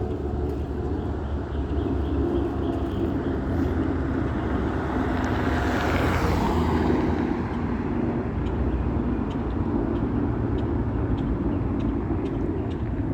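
Jet engines of a Boeing 757-300 at climb thrust, a steady low rumble. About six seconds in, a hissing sweep falls in pitch as the jet passes.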